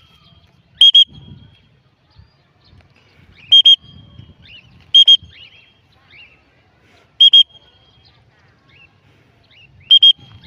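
A whistle blown in short, loud double blasts, five times, each a steady high note. Faint bird chirps come between the blasts.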